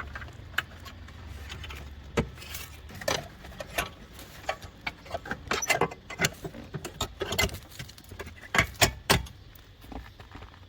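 Irregular metallic clinks and taps of hand tools and metal parts being handled during car repair work, with a low hum under the first couple of seconds.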